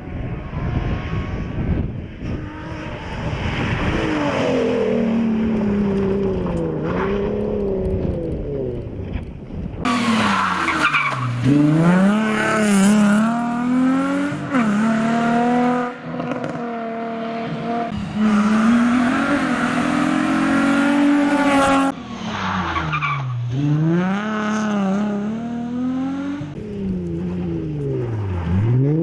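Nissan 350Z rally car's engine revving hard at full throttle, its pitch climbing and then dropping repeatedly through gear changes and lifts, in several clips cut together. There is a noisy rush in the first couple of seconds.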